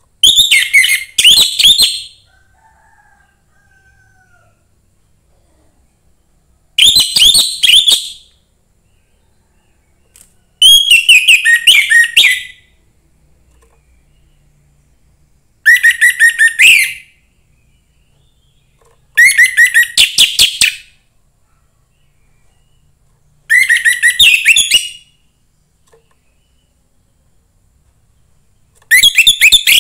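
Young wild orange-headed thrush singing: seven short, loud phrases of rapid repeated high notes, each a second or two long, with pauses of a few seconds between them.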